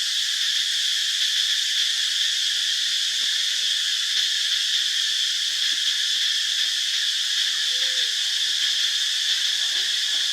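Steady high-pitched drone of an insect chorus, unchanging throughout, with a faint short call about eight seconds in.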